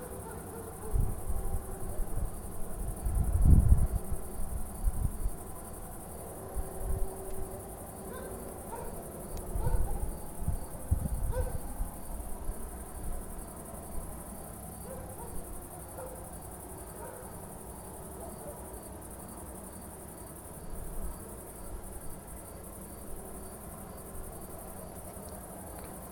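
Crickets chirping steadily as a high, even trill. Short low rumbles break in during the first half, loudest about three to four seconds in and again around ten seconds in.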